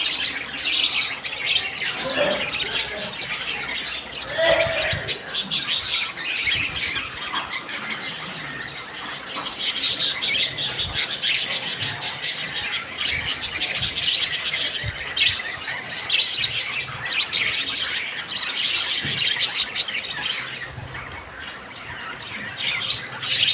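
Small pet parrots, lovebirds and budgerigars, chattering and chirping continuously as a flock, with dense rapid chirps that are loudest and busiest around the middle.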